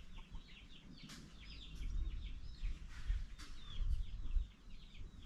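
Chicks peeping: many quick, high, downward-sliding chirps overlapping one another, with a couple of faint knocks.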